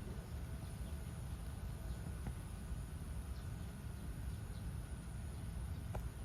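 Steady background noise: a low rumble with a thin, high steady whine above it and a couple of faint soft clicks.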